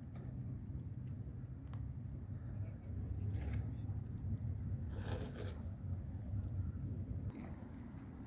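Birds calling outdoors: a steady string of short, high, arched chirps over a low continuous rumble.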